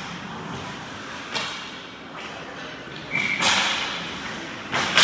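Ice hockey play in an echoing rink: a sharp knock about a second and a half in, then a louder bang with a scraping rush of noise about three seconds in, and another bang near the end, typical of pucks, sticks and players hitting the boards and skates cutting the ice.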